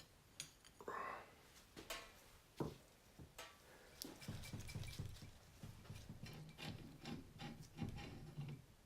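Faint handling of small metal engine parts, with scattered light clicks and rubbing, then a stretch of quiet shuffling and small ticks in the second half.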